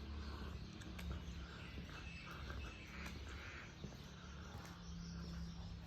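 Faint outdoor ambience: birds chirping in the distance over a low, steady hum.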